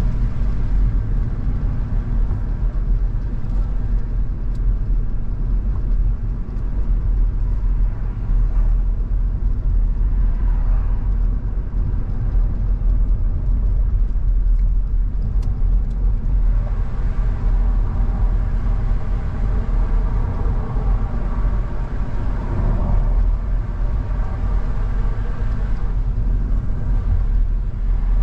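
Car driving along: a steady engine and tyre rumble, heaviest in the low end, with a faint engine note above it.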